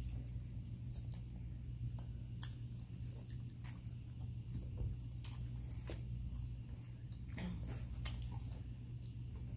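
Eating sounds from biting and chewing a fried chicken egg roll and chicken wings: irregular crunches and mouth clicks over a steady low hum.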